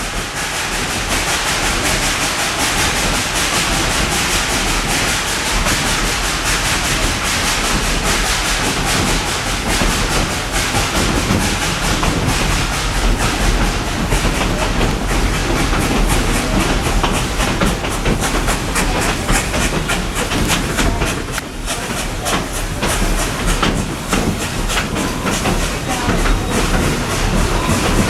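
Steam train running along the track, heard from aboard: a steady rush of running noise with the clickety-clack of wheels over the rails and the cars rattling, the clacking growing busier in the second half and easing briefly about 21 seconds in.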